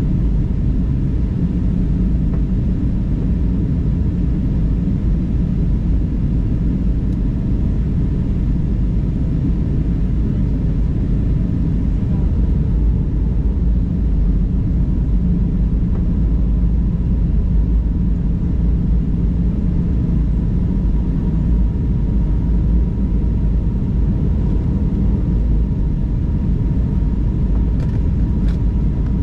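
Steady low rumble of an airliner's engines and airflow heard inside the passenger cabin during the descent, with a faint steady whine in the second half.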